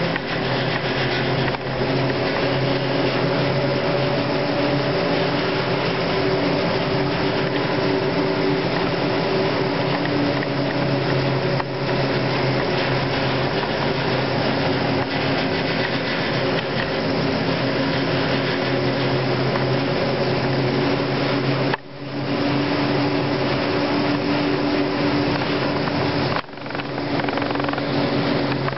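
Steady mechanical hum with several held tones from the running cable car line, its ropes turning over the sheaves of a pylon close by; the sound briefly dips twice near the end.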